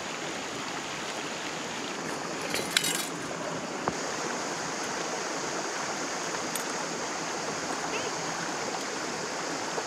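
Running stream water rushing steadily, with a few brief sharp clicks about three and four seconds in.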